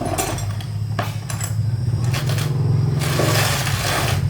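An engine running steadily with a low, fast-pulsing rumble, with metal clatter and scraping over it, loudest about three seconds in.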